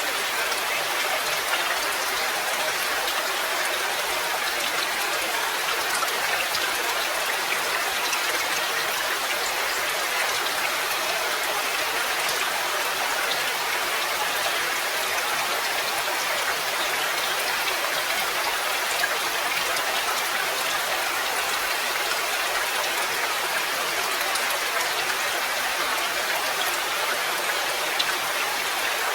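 Steady rain, a dense even patter of drops with no let-up, with a few sharper single drop ticks standing out now and then.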